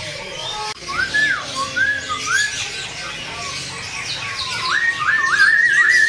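Male grey-headed canary-flycatcher (samyong) singing clear whistled notes that rise and fall about twice a second, then a quick run of rising notes held and wavering near the end. Many other small caged birds chirp faintly behind.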